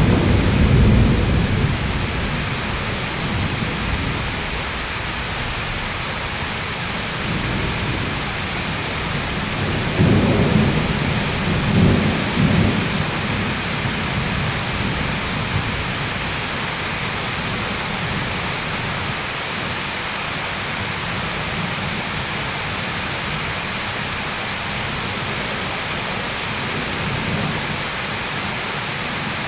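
Steady heavy rain with rolling thunder: a rumble of thunder at the start, and another peal with two swells about ten to thirteen seconds in, over the constant hiss of the rain.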